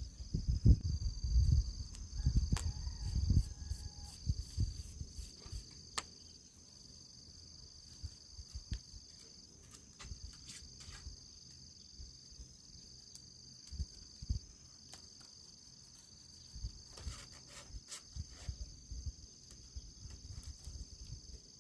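Insects trilling in steady high tones, one of them in repeated phrases about a second and a half long with short breaks. Low knocks and rustling in the first few seconds, and scattered sharp clicks throughout.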